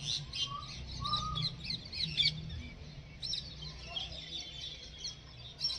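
Birds chirping in many quick, high notes, with a few fainter, lower calls mixed in.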